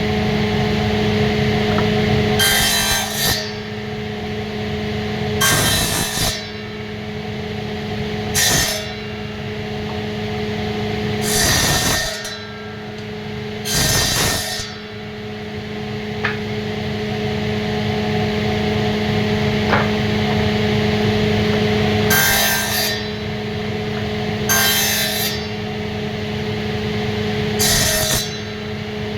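An electric woodworking power tool's motor runs with a steady hum, and about eight short, harsh bursts break in at uneven intervals as it bites into wood.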